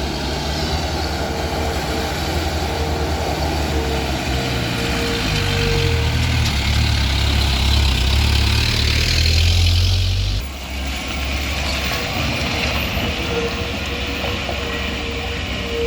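Heavy diesel engine of a truck or road machine running, revving up and getting louder about halfway through, then dropping suddenly to a steadier run. A repeating beep sounds over it at the start and again near the end.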